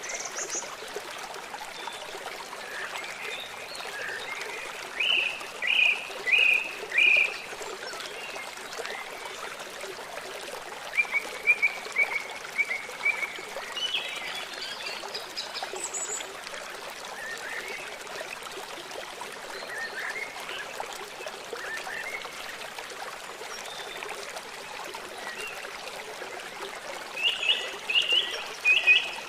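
River flowing steadily, with birds calling over it in short runs of three or four chirps, the loudest about five seconds in and again near the end.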